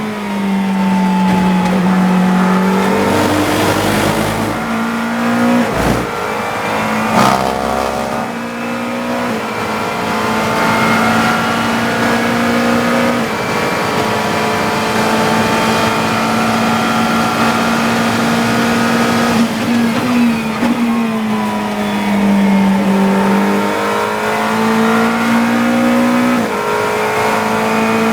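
GT3 race car engine heard from inside the cockpit under racing load: it accelerates with several quick upshifts in the first seconds, holds high revs for a long stretch, then drops in pitch under braking and downshifts before pulling away again near the end.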